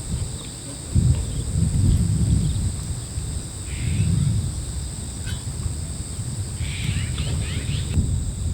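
Low gusting rumble of strong wind buffeting the microphone, under steady high-pitched insect trilling. Brief chirps come about four seconds in and again near seven seconds.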